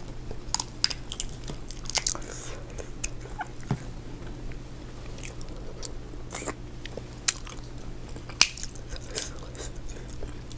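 Close-miked eating of a seafood boil: chewing and biting, with scattered short wet clicks and crunches.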